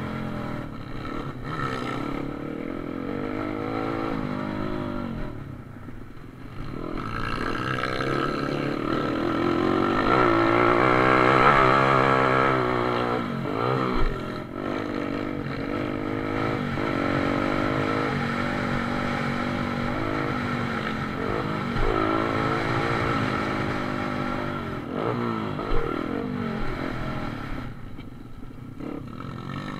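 Pit bike engine revving hard while racing, its pitch repeatedly climbing and dropping as it accelerates and shifts or backs off. A sharp knock comes about 14 seconds in, and another near 26 seconds.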